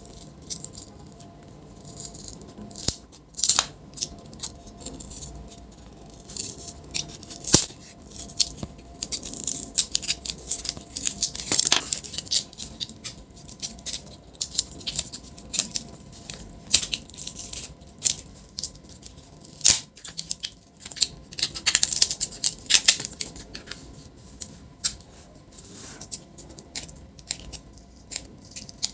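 Irregular small clicks, taps and short scrapes of a screwdriver, screws and small parts being handled while a MacBook Pro A1278 is taken apart.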